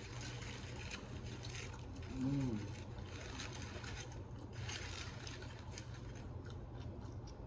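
A person chewing pizza with the mouth closed, soft irregular chewing and mouth noises, with a short hummed 'mm' about two seconds in, over a steady low hum.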